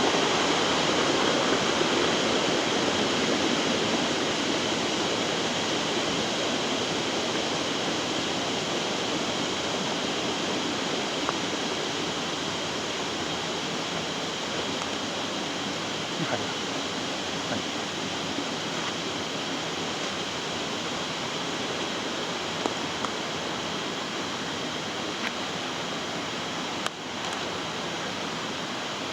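Steady rush of flowing water from a river or stream, slowly growing fainter, with a few faint ticks.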